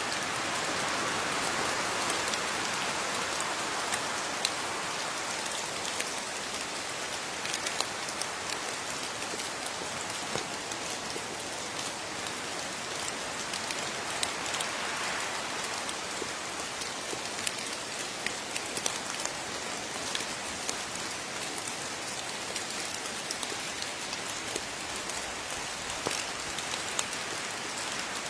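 Steady rain falling on a surface, with many separate drops landing and dripping.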